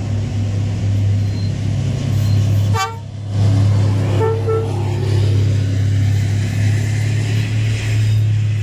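Steady low drone of a diesel train engine, with two short horn toots, one just before three seconds in and another about a second later.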